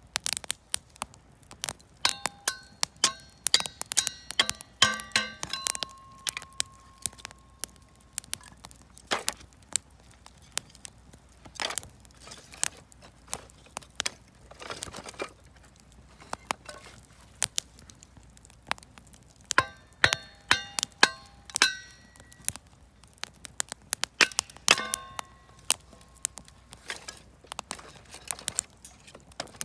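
Wood fire crackling with sharp pops throughout, burning offcut scrap wood and firewood. Two spells of ringing metallic clinks, a few seconds in and again about two-thirds through; after the first, one ringing tone lingers for a couple of seconds.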